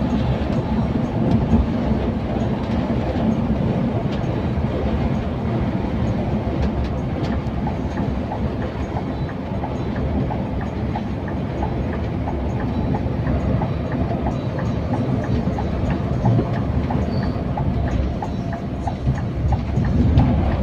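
Scania K410iB coach on the move: a steady low rumble of engine and road noise, with a run of light, evenly spaced ticks in the second half.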